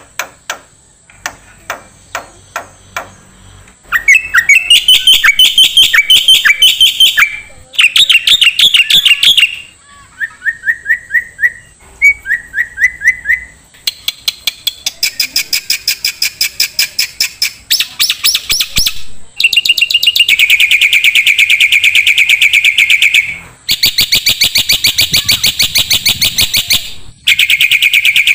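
Songbird calling in a series of phrases: sharp single clicks at first, then about four seconds in, loud rapid trills repeated in bursts, some short rising runs, and long fast trills in the second half.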